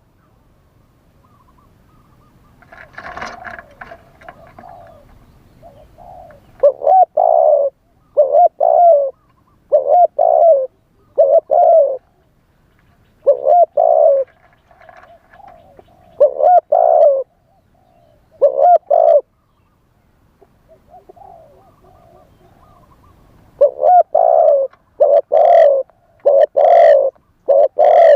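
Spotted dove cooing: loud, low coos in groups of two or three notes, with pauses between groups and a faster run of coos near the end. A brief rustling noise about three seconds in.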